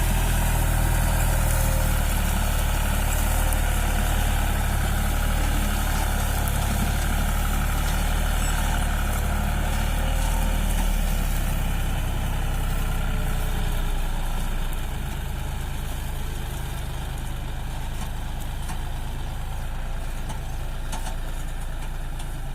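Tractor diesel engine running steadily at a low, even speed, growing quieter in its deep low end about two-thirds of the way through.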